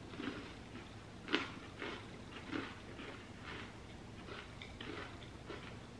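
Crunching and chewing of a chocolate-dipped crème sandwich cookie, with one sharper crunch a little over a second in, then faint crunchy chews about twice a second.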